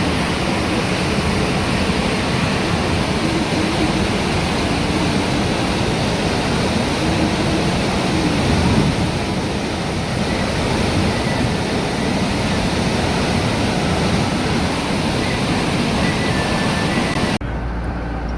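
Steady rushing of fast-falling water, a dense even hiss from low to very high. Near the end it cuts off abruptly and gives way to a lower rumble.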